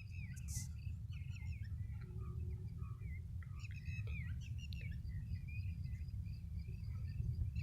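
Several small birds chirping and calling in quick, short notes, over a steady low rumble.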